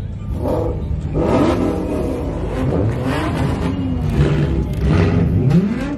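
Ford Mustang engine revved hard again and again, its pitch climbing and dropping several times, while the car does a smoky burnout.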